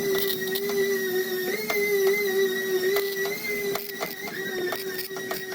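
Small electric power tool motor running steadily with a slight waver in pitch, with scattered light clicks and taps over it.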